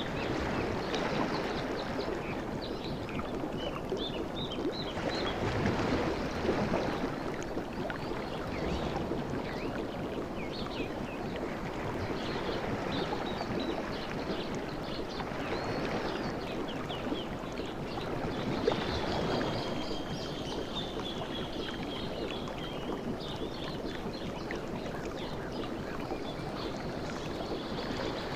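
Sea waves washing onto a beach: a steady rush of surf that swells several times, with faint high chirps above it.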